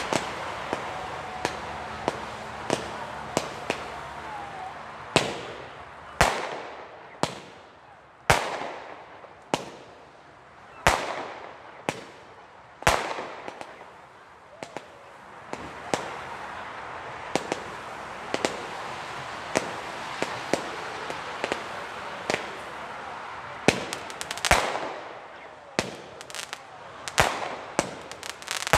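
Weco Pyro Concept 905 compound firework battery firing: a steady run of shots and bangs about once a second, several of them ringing out as they fade. Near the end the shots come in quick clusters.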